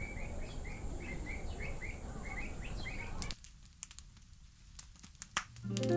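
A bird chirping over and over, about three short calls a second, over outdoor background noise; it stops about three seconds in. After that come a few scattered sharp crackles, and music begins just before the end.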